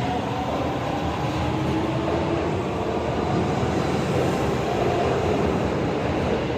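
Tanimachi Line subway train running, a steady rail rumble with a faint motor whine.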